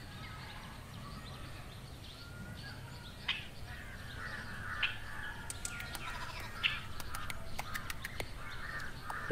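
Birds chirping and calling, many short chirps, busier in the second half, over a low steady background hum.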